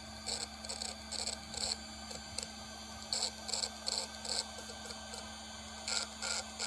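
Hard disk drive that cannot be recognised or read, making an abnormal repeated clicking in small clusters with short pauses between them, over a steady hum.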